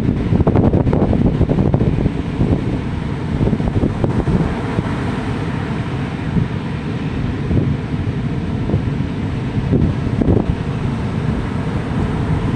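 Strong wind buffeting the microphone in uneven gusts, over the wash of ocean surf.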